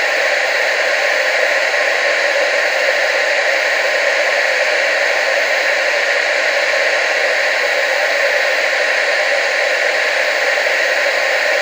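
Analog TV static: a steady, even hiss, strongest in the middle and upper range with little bass, unchanging throughout.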